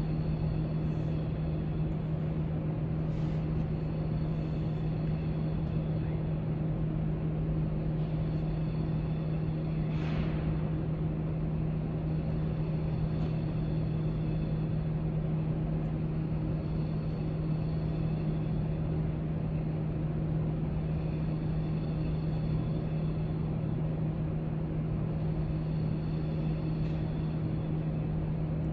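Library background ambience: a steady low hum, like ventilation or machinery, with a constant low drone and a few faint soft ticks. There is one brief brighter rustle about ten seconds in.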